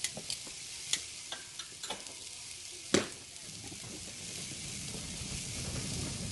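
Teriyaki-sauced chicken wings sizzling on the grate of a charcoal Weber kettle grill over direct heat, a steady hiss. Several sharp clicks in the first few seconds, the loudest about three seconds in.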